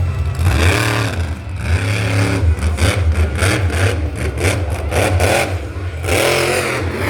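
An engine revving over and over, its pitch swinging up and down about once a second, over a steady low rumble.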